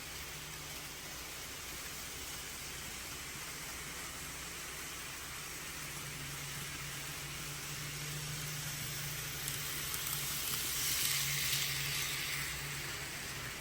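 Train going by: a steady low hum sets in about halfway, and a swell of hiss rises to a peak near the end and then fades.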